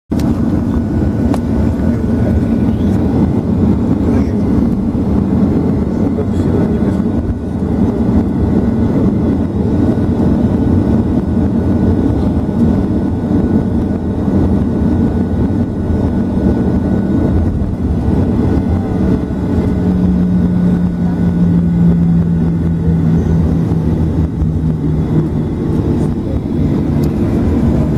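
Boeing 737 jet engines running, heard as a loud steady low rumble with a faint high whine. About twenty seconds in, a low hum steps down slightly in pitch.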